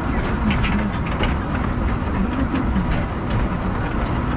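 Heard from aboard a narrow-gauge forest railway train, running along the track with a steady rumble and irregular clicks and clacks from the wheels on the rails.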